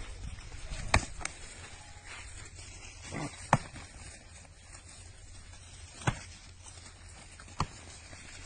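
A handful of sharp knocks at irregular intervals over a low background: two close together about a second in, a loud one about three and a half seconds in, and others near six and seven and a half seconds.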